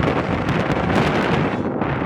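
Strong wind buffeting the microphone, over the rumble of a loaded coal train's cars rolling past.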